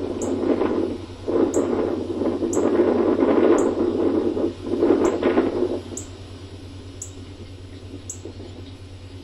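Wind buffeting the microphone in strong, uneven gusts that die down about six seconds in. A faint high tick repeats about once a second underneath.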